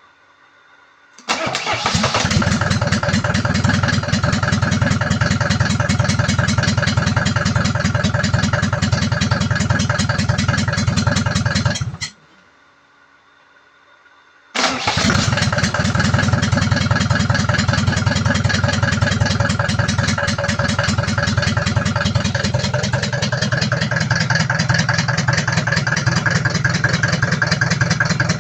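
A homemade tractor's engine starting and running with a fast, even beat. About twelve seconds in it cuts off, then after a couple of seconds it starts again and keeps running.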